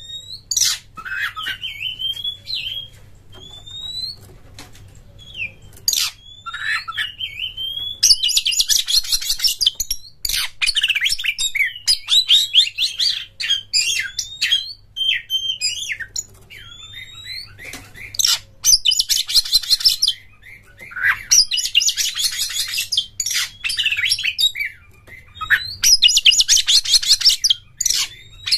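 Oriental magpie-robin (kacer) singing a varied song of whistled slurs and short notes. Several one-to-two-second bursts of fast, buzzy trilling break into it.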